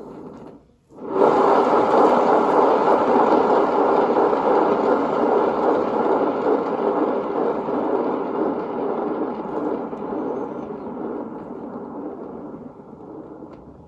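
Handheld hairdryer blowing on wet poured acrylic paint: a short blast at the start, then it comes on about a second in and runs steadily, fading gradually near the end.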